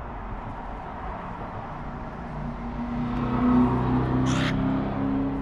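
A low, steady mechanical hum, like a motor or passing vehicle, swells in from about halfway and holds to the end over a background hiss, with one brief short hiss a little before the end.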